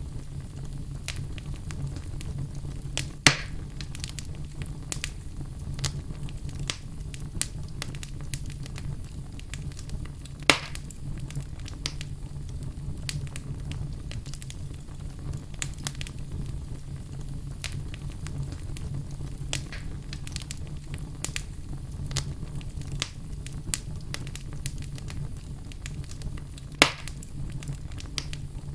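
Wood fire burning in a fireplace: constant small crackles over a low steady rumble, with three louder sharp pops, about three seconds in, about ten seconds in and near the end.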